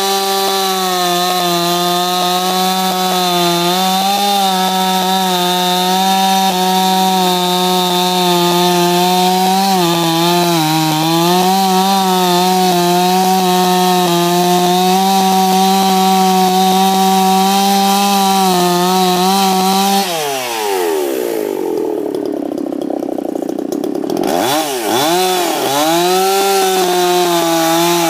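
Ported Husqvarna 357 XP two-stroke chainsaw running at steady full throttle while cutting a peeled white pine log. About twenty seconds in the throttle is let off and the engine falls to idle for a few seconds, then it revs up and down and comes back to full speed.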